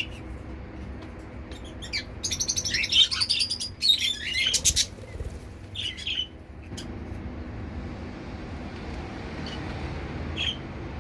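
Zebra finches calling: a dense run of high chirping calls between about two and five seconds in, then a single call near six seconds and another near the end, over a steady low background hum.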